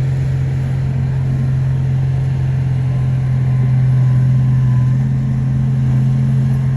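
Bulldozer's diesel engine running steadily, a low even drone that swells slightly about four seconds in.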